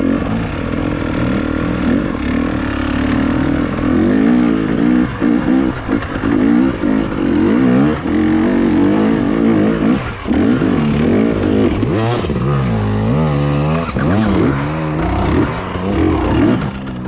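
KTM two-stroke enduro bike engine ridden hard off-road, revving up and down over and over as the throttle is worked. It dips briefly about ten seconds in.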